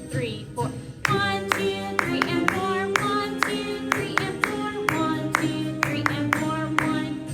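Concert band recording playing a blues piece: held wind chords over a steady beat of sharp percussion strikes, about two a second.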